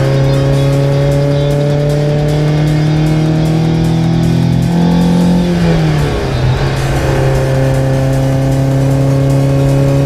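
Naturally aspirated four-cylinder engine of a Toyota MR2 SW20 running through a stainless Mongoose exhaust with decat. The note climbs slowly for about four seconds, falls away about five to six seconds in, then holds steady.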